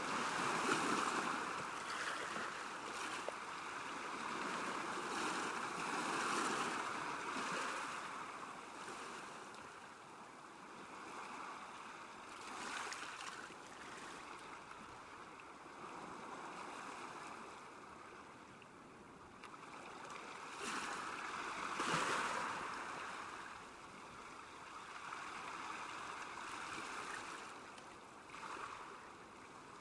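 Small waves lapping and washing on a lake shore, a steady watery rush that swells and fades every few seconds.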